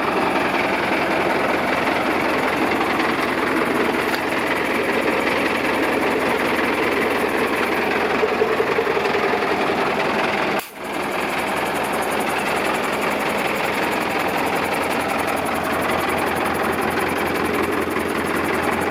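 Zetor 7540 tractor's diesel engine running steadily. The sound drops out for a moment about halfway through, then the engine carries on as before.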